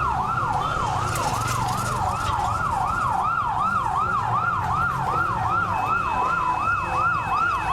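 Emergency vehicle siren in a fast yelp, rising and falling about three times a second, with a fainter second siren behind it and a low rumble underneath. A steady high tone joins about six seconds in.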